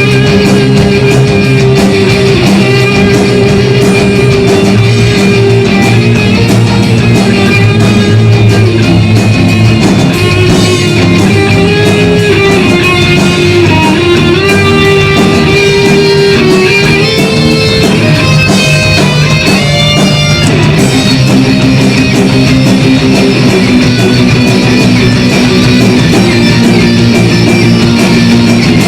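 Instrumental break of a heavy rock song: loud guitars with a melody line on top and no singing.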